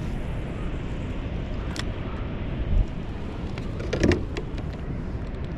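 Steady rushing of water pouring through an opened dam, with a few light clicks and a short knock about four seconds in.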